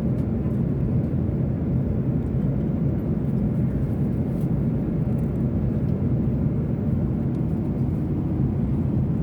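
Steady low rumble of an airliner cabin in flight, the constant engine and airflow noise heard from a passenger seat, with a few faint light clicks.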